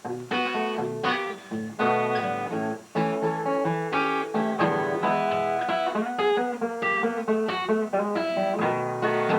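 Solo guitar played by hand: a steady stream of picked single notes and chords, several notes a second, each ringing on.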